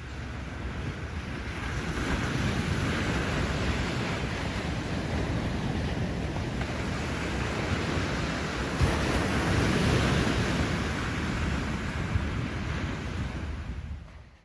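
Ocean surf, waves breaking and washing in, with some wind noise on the microphone. It grows louder around nine seconds in and fades out at the end.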